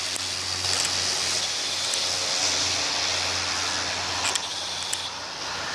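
Cessna Grand Caravan's turboprop engine running, heard as a steady rushing noise without a clear tone, with two faint clicks about four and five seconds in.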